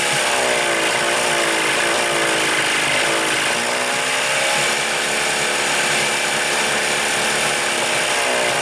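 1975 Evinrude 40 hp two-stroke twin outboard running, its speed sagging and picking up again in slow waves. It is missing as if one cylinder has dropped out, which the owner puts down to intermittent spark.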